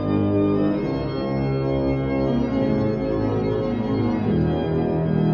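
Organ music playing slow, held chords that change about once a second.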